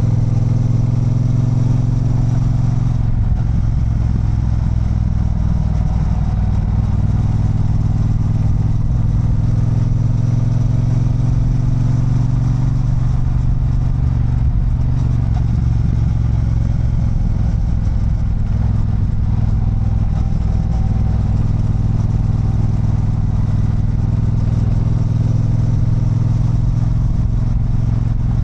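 Triumph Bonneville Bobber's 1200 cc parallel-twin engine running under way on a downhill ride, its pitch gently falling and rising with the throttle.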